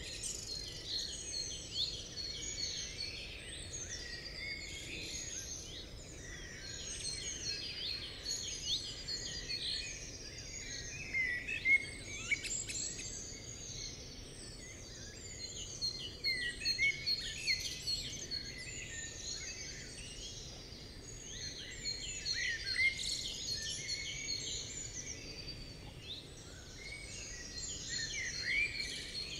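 Many birds chirping and calling at once in a dense, overlapping chorus of short, quick chirps, over a steady low background noise.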